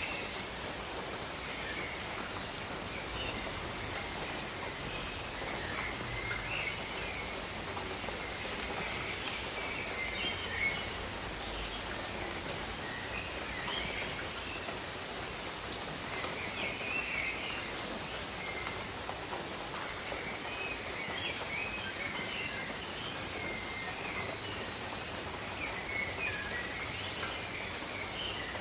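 Steady gentle rain pattering on leaves, with small birds chirping and singing softly in short phrases every few seconds.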